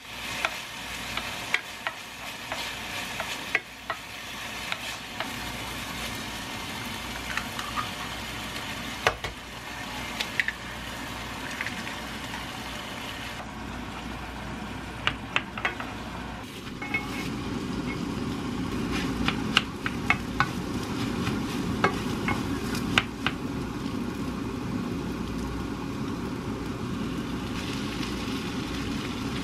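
Green onions, then scrambled egg and rice, frying in oil in a frying pan, stirred with a wooden spatula that taps and scrapes against the pan. The sizzle grows louder about halfway through.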